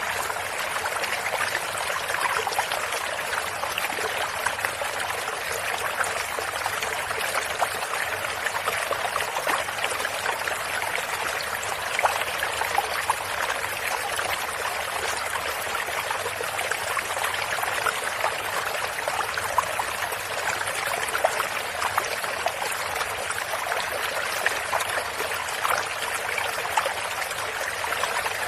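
Stream water running and trickling steadily over stones, with many small splashes and gurgles in it.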